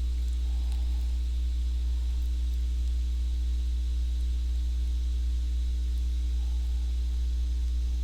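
Steady low hum with a faint hiss, unchanging throughout; no distinct handling sounds stand out.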